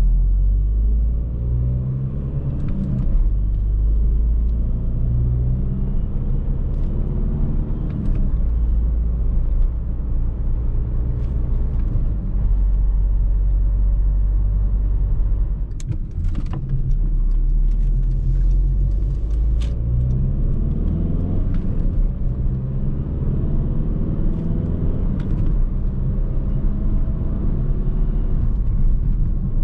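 Škoda Octavia II's 1.9 TDI four-cylinder Pumpe-Düse turbo diesel driving under load, its note rising and falling with the revs. There is a brief drop in level about halfway through, like a lift-off for a gear change, and then it pulls up again, with a few light clicks along the way.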